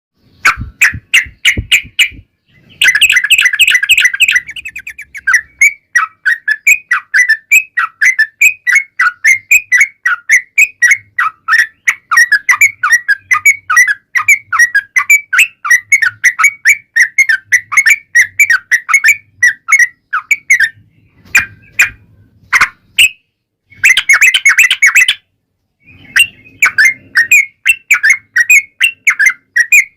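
Yellow-vented bulbul (trucukan) singing a long, fast, continuous run of chattering notes, about four or five a second, with two denser, harsher rattles and a couple of brief pauses. This is the long rolling song that keepers play to get other trucukan birds to answer.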